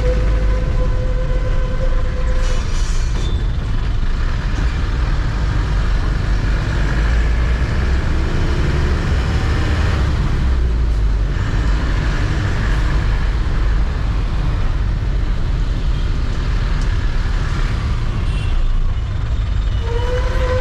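Truck engine rumbling steadily while driving in traffic. A long steady high tone sounds for the first two seconds and again near the end.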